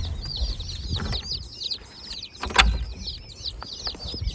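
A box of baby chicks peeping, many high, rapid chirps overlapping one another. A couple of knocks sound over the peeping, the louder one about two and a half seconds in.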